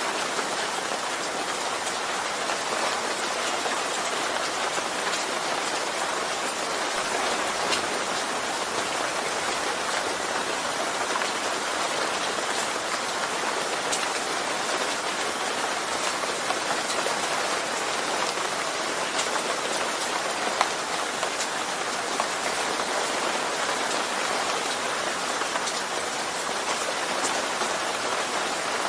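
Steady rain falling: an even hiss of rainfall with scattered individual drops ticking through it.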